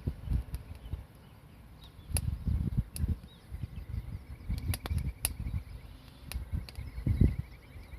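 Wood campfire crackling, with a handful of sharp pops and snaps, over low gusts of wind buffeting the microphone.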